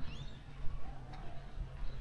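A bird gives one short chirp near the start, and two faint footsteps tick on the path, one about halfway through and one near the end.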